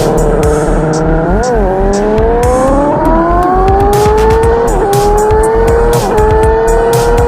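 Kawasaki ZX-4R's inline-four engine revving high, its pitch climbing steadily with brief dips and jumps about a second and a half in, near five seconds and about six seconds in.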